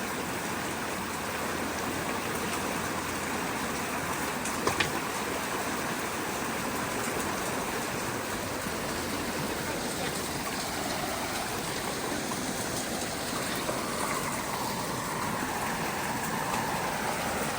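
Creek water flowing steadily and fast through a culvert after heavy rain, with one sharp knock just under five seconds in.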